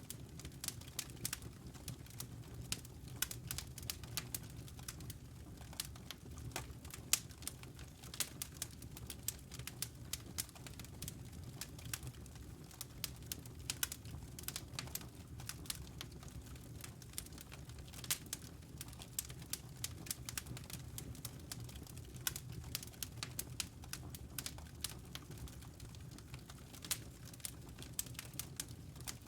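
Wood logs burning in a fireplace, crackling with many small irregular pops over a steady low rumble of the flames.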